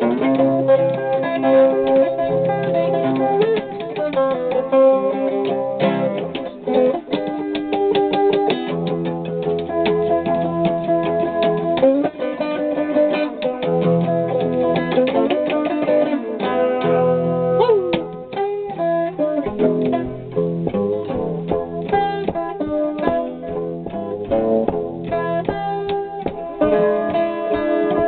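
Guitar picked in a blues, an instrumental passage between sung verses, with a few notes sliding in pitch about two-thirds of the way through.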